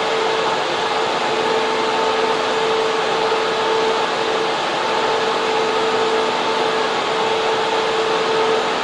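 Data center server room air-cooling fans running steadily: a loud, even whir with a steady humming tone through it.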